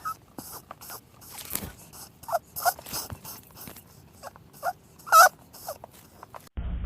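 A dog whimpering: several short, high cries among soft clicks and snuffling sounds.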